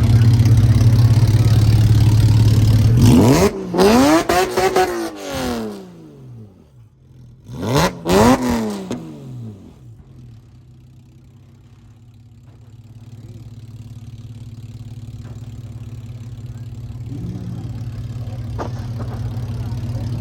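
Sports car engine running steadily, then revved hard twice, about three and a half and eight seconds in, the pitch climbing and falling back each time. Afterwards a low steady engine hum returns and slowly grows louder.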